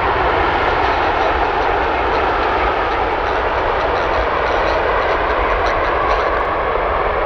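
Jet airliner engines on arrival, a loud, steady rush of engine noise.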